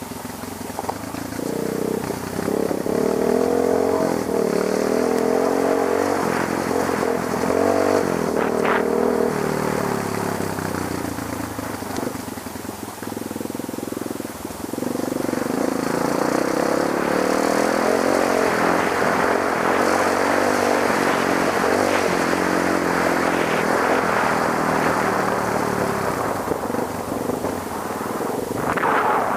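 Trail motorcycle engine running and revving up and down as it rides over rough ground, easing off for a few seconds around the middle before picking up again.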